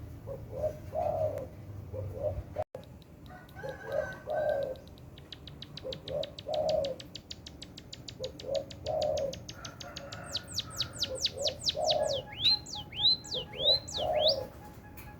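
A dove cooing over and over, a low phrase about every two and a half seconds. From about five seconds in, a small songbird, an emprit (munia), gives a fast run of high ticks that speeds up and grows louder into sweeping downward whistles, then a few looping high notes near the end.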